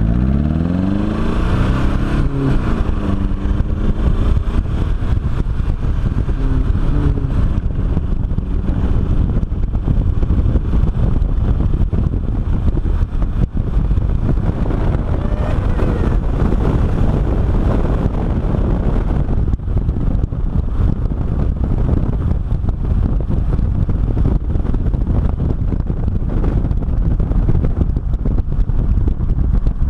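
Volkswagen 1.9 TDI (1Z) diesel engine pulling away under load. The revs climb over the first couple of seconds, drop at a gear change, then settle into steady driving, with a dense rumble of engine and wind noise.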